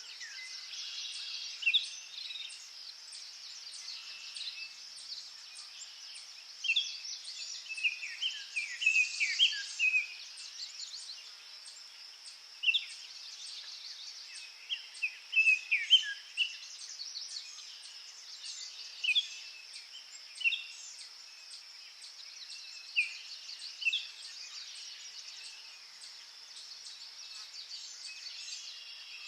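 Birds chirping over a steady, high-pitched insect chorus. The calls are short, downward-sliding chirps that come in clusters, with the busiest spells about a third and about half of the way through.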